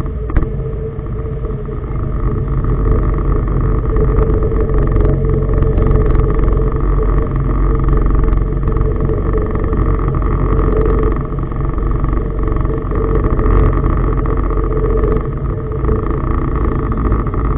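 Tugboat's diesel engine running steadily with a constant low rumble and drone.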